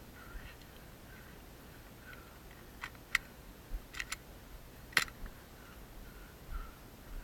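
Airsoft guns firing: five sharp snaps between about three and five seconds in, two quick pairs and then one louder single shot.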